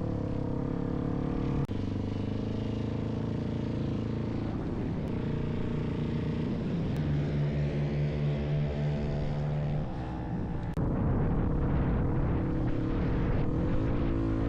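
Dirt bike engine running, in clips cut together, with abrupt changes in the sound about two seconds in and again near eleven seconds.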